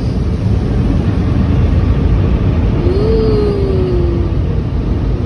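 Automatic car wash machinery running, heard from inside the car as a loud, steady low rumble. A short falling tone sounds about three seconds in.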